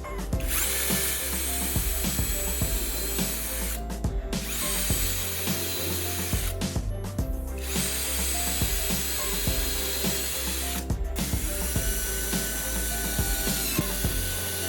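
A power tool runs in stretches of a few seconds, with short breaks between, amid clicks and knocks of workshop handling. Background music plays underneath.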